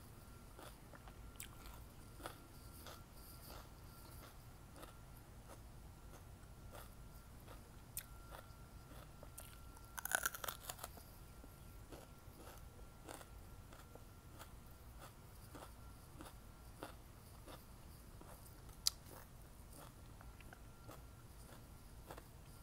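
Faint crunching and chewing as a person bites into and eats a raw small yellow pepper. There are soft crunches throughout, with a louder cluster of bites about ten seconds in.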